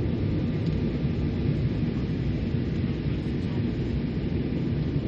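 Steady cabin rumble of an Embraer 195 airliner in flight: engine and airflow noise heard from a window seat, low and even with no changes.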